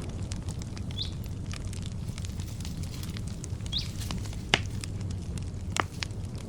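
Campfire crackling: many small pops and two sharper snaps in the second half, over a low steady rumble. A bird gives a short chirp twice, about a second in and again near four seconds.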